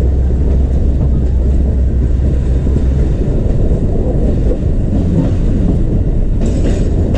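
Passenger train running along the track, heard from the side of a moving carriage: a loud, steady low rumble.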